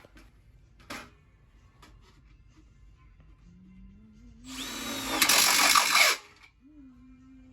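Power drill running for a burst of about two seconds, its motor pitch climbing as it spins up, then stopping abruptly. Two short clicks come before it.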